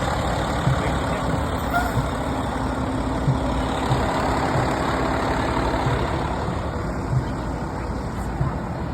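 Heavy fire truck engine running steadily, a deep rumble with a soft low pulse about every second and a quarter.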